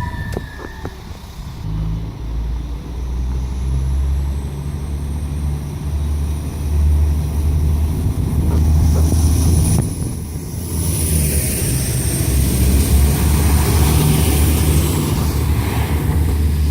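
Diesel engines of an Alstom Coradia LINT diesel railcar running with a deep, steady rumble and a thin high whine above it.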